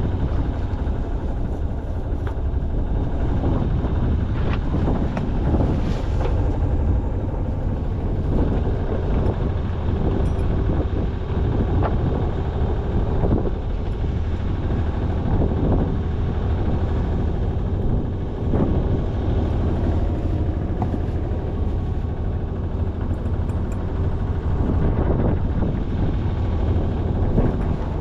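Sailing yacht's inboard engine running steadily as the boat motors along under way.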